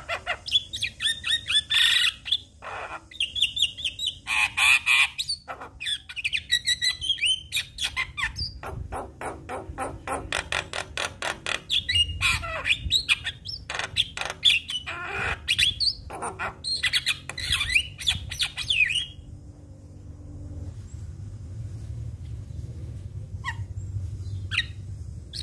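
Javan myna (jalak kebo) singing a fast, varied song of squawks, chirps and rapid clicking rattles. The song stops about 19 seconds in, and a couple of short calls follow near the end.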